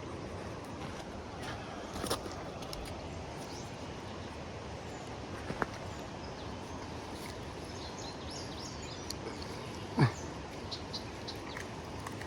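Steady rush of river rapids with birds chirping now and then, a few faint clicks, and one louder thump about ten seconds in.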